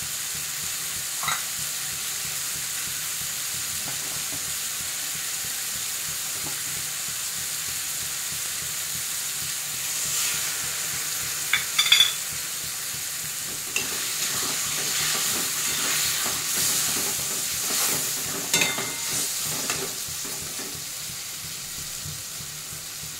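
Tomato masala with green peas sizzling steadily in an aluminium kadhai. Around halfway a few sharp metal clinks come, then a louder stretch of the metal spatula stirring and scraping against the pan.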